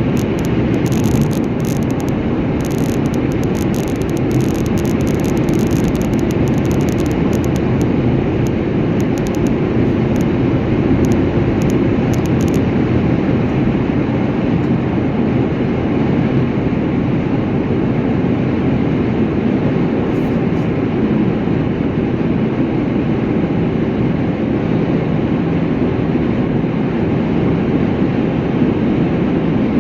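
Steady rumble and road noise of a moving vehicle, unbroken throughout.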